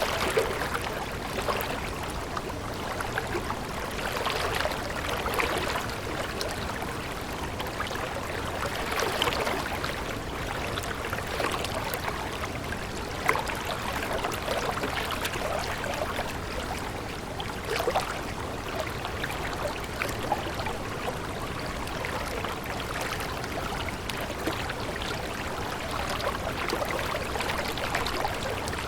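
Water flowing steadily in a stream, trickling and gurgling.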